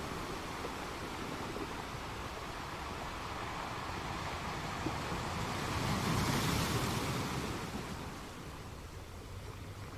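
A steady rushing noise that swells to a peak about six seconds in and then eases off.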